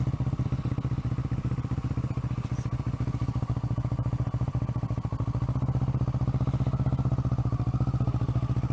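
Kawasaki ER-6n's parallel-twin engine idling steadily with an even, rapid pulse while the motorcycle stands stopped.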